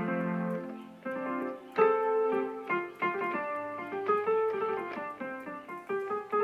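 Korg Pa600 arranger keyboard playing a piano-type voice: held chords at first, then a quicker line of separate notes from about two seconds in, with a low bass note joining about halfway.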